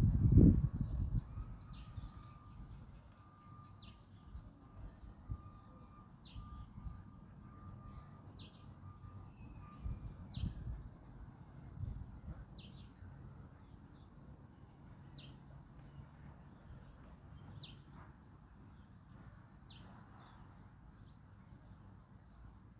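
Birds calling: one short, falling call repeated every second or two, with thin, very high chirps joining in through the second half. Underneath is a low wind rumble, loud for the first second or so.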